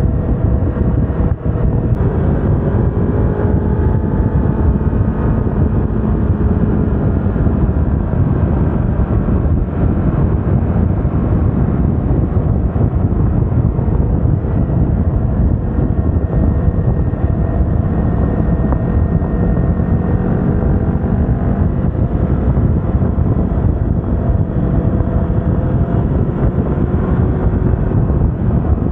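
Yamaha R25's 250 cc parallel-twin engine running under way, its pitch rising and falling as the rider works the throttle and gears, over a steady low wind rumble on the microphone.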